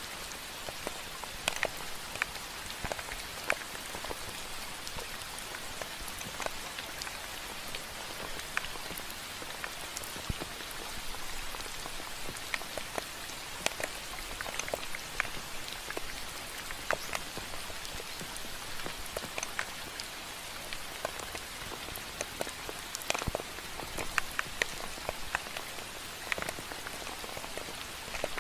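Steady rain, with many separate drops ticking sharply on a surface.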